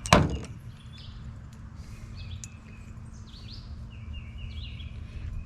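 A sharp knock right at the start, then small birds chirping repeatedly over a steady low background rumble.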